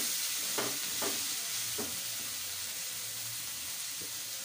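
Chicken and onion filling sizzling in a frying pan as a wooden spatula stirs it, with a few short scrapes of the spatula against the pan.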